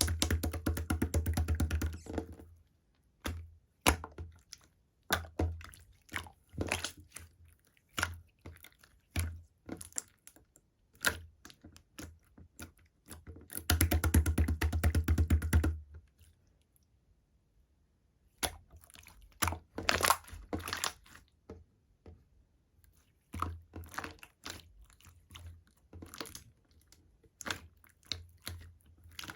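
Slime being squished and poked by hand: runs of rapid, crackling clicks and pops, densest at the start and again about halfway through, with scattered softer clicks between and a short lull just after the middle.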